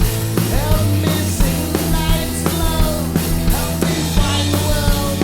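Rock band playing an instrumental passage with drum kit, bass and bending guitar lines at a steady beat.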